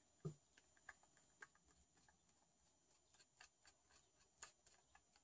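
Faint, scattered small clicks and ticks of a screwdriver working a screw loose in the impact wrench's housing, with near silence between them.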